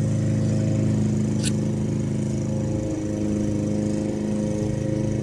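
Steady droning hum of a running motor, even in pitch throughout, with one light click about one and a half seconds in.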